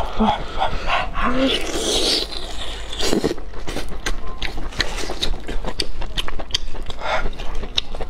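Close-up eating sounds of a person chewing chewy braised meat: wet mouth clicks and smacks, several a second, with a couple of brief low hums in the first second and a half.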